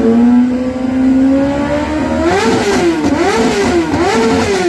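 Kawasaki ZX-10R's inline-four engine: the pitch climbs steadily for about two seconds, then the throttle is blipped in about four quick revs, each rising and dropping back.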